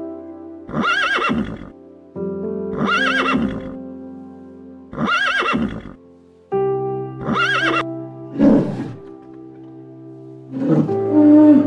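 A horse whinnying four times in near-identical calls about two seconds apart, over soft piano music. Two different, lower animal sounds follow near the end.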